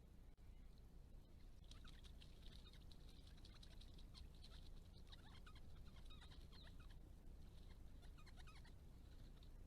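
Faint, rapid high-pitched chirping and twittering of birds, starting about two seconds in and thinning out near the end, over a low steady hum.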